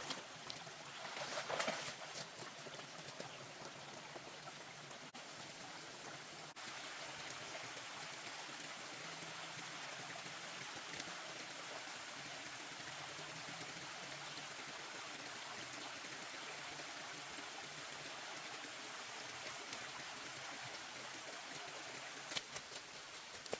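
Steady rush of water noise, an even hiss, with a louder brief disturbance near the start and a sharp click near the end.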